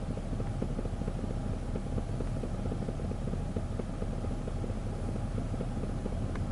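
Car engine idling: a steady low rumble with a quick, regular ticking.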